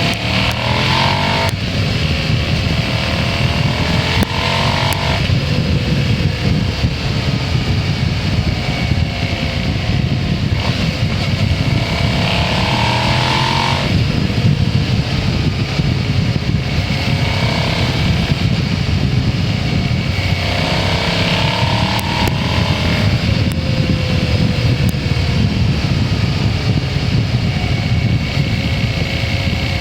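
Motorcycle engine running under way, its pitch climbing and then dropping sharply several times as it pulls through the gears.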